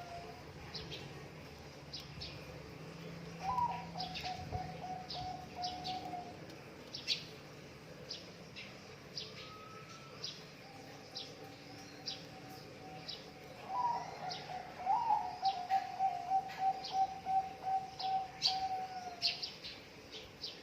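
Zebra dove (perkutut) cooing in long rolling trilled phrases, three or four times, with short high chirps from small birds scattered throughout.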